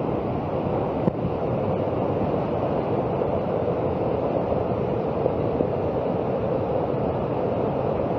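Floodwater in a swollen river rushing past, a steady, unbroken rush of water.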